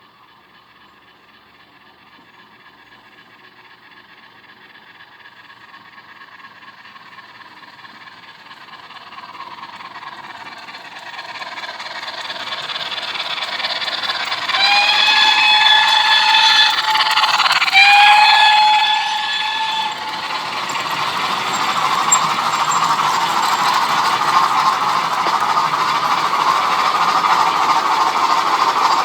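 Steam train drawing nearer, growing steadily louder for about fifteen seconds. It then gives two whistle blasts of about two seconds each, a second or so apart, followed by a steady loud running noise.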